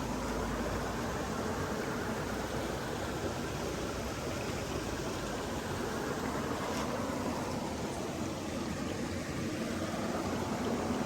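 Steady rushing of flowing water, an even wash of noise with no breaks.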